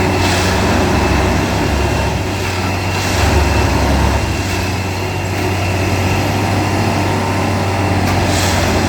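Indian Railways DTE track maintenance machine working: a heavy engine runs with a steady low drone, and brief hissing bursts come at the start, about three seconds in, and near the end.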